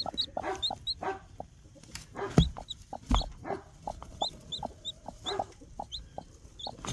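A newly hatched chick peeping in short, high, upward chirps, about two or three a second, while the broody hen gives low, short clucks. Two loud thumps come about two and three seconds in.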